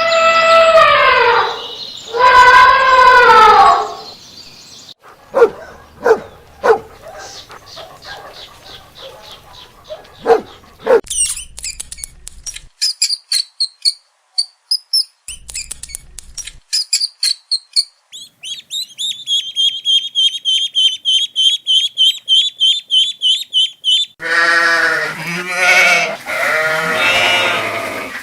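A run of different animal calls, one after another. Two long pitched bleating calls open it, then come sharp clicks and a long stretch of high, rapid chirping, and bleating calls start again near the end.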